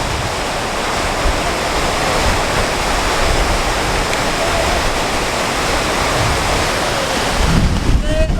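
A steady rushing noise with an uneven low rumble underneath, like wind or running water, ending just before the end.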